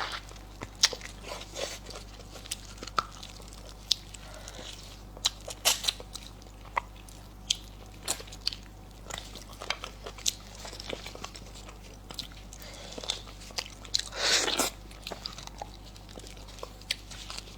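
A person eating close to the microphone: irregular wet chewing and biting with many sharp, crisp clicks and smacks. About fourteen seconds in there is a longer, louder noisy sound of under a second.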